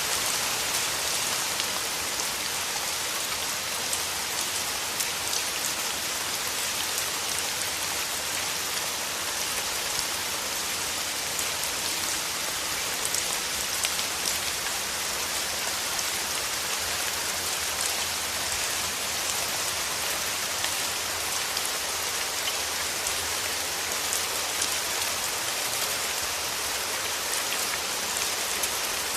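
Steady rain falling through forest trees, a continuous hiss with many small drop patters.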